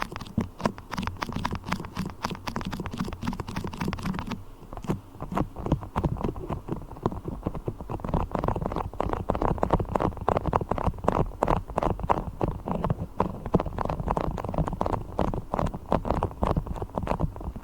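Beeswax being handled for ASMR, giving a dense run of quick sticky clicks and crackles. About four seconds in the sound loses its crisp top and turns duller.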